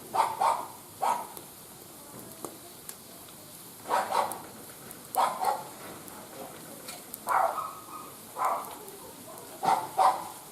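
A dog barking, short sharp barks mostly in pairs, every second or two.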